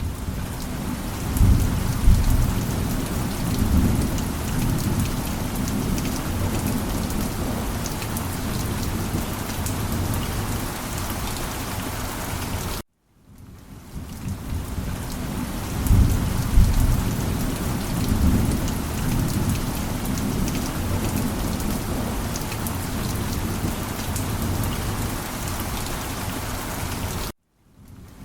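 Steady heavy rain with rolling thunder rumbling twice, once a couple of seconds in and again about sixteen seconds in. The sound cuts out briefly about 13 s in and again near the end, fading back in each time.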